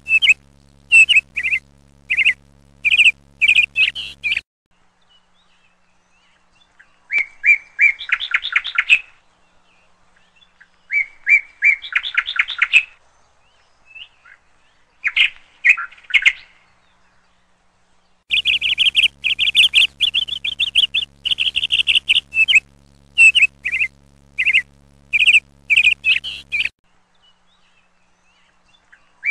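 Small birds chirping in quick bursts and short trills, with pauses between groups. A low steady hum runs under the chirps for the first few seconds and again for about eight seconds past the middle.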